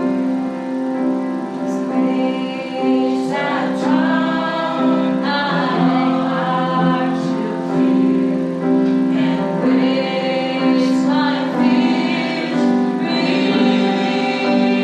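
Congregational worship song: voices singing together, a woman's voice prominent, over sustained instrumental accompaniment.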